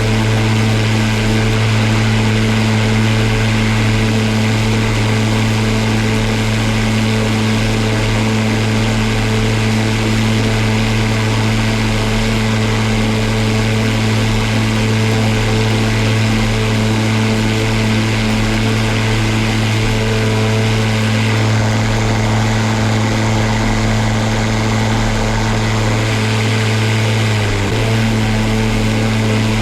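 Parkside PPRMA 40-Li A1 cordless electric lawn mower running with a steady hum, its pitch dipping briefly near the end.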